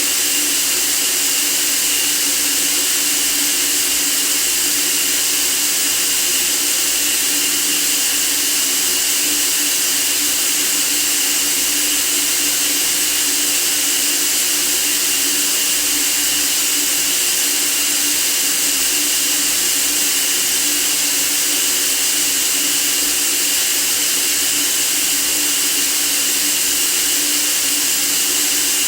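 Steady, unchanging white noise for sleep: an even hiss, strongest in the high range, with no change in level.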